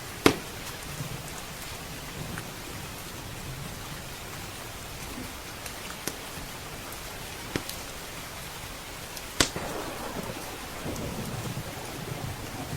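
Steady rain with a wood fire crackling: a few sharp pops, the loudest just after the start and about nine seconds in. A low rumble of thunder swells in the last few seconds.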